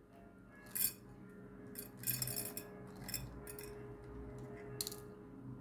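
Small plastic diamond-painting crystals (drills) clinking and rattling as they are handled and sorted into storage, in short bursts about a second in, around two seconds in, and near the end.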